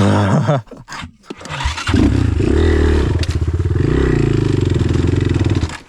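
Dirt bike engine: a short burst that dies away in pitch, then the engine runs hard and revs for about four seconds before cutting off abruptly.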